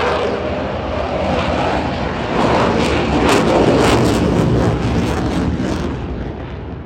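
Eurofighter Typhoon's twin jet engines at high power as the fighter flies past, a loud, dense jet noise with sharp crackles, swelling in the middle and fading near the end.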